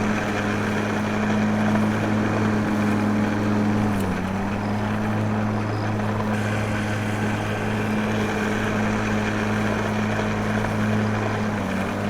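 Small motor running with a steady hum, its pitch dipping briefly about four seconds in and again near the end.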